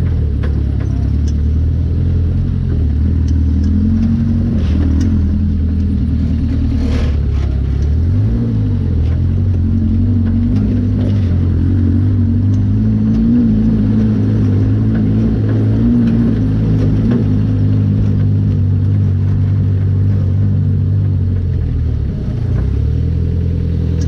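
Off-road buggy engine running steadily under way. Its pitch drops and picks up again about eight seconds in and once more near the end, as with a throttle lift or gear change.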